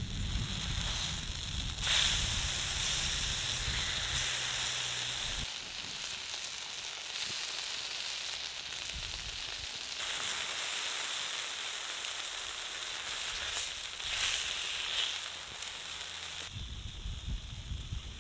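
Meat and vegetables sizzling on a hot flat griddle, a steady frying hiss that jumps in level a few times, with brief louder flares as the food is turned with a metal spatula. Near the end the sizzling stops and lower rustling takes over.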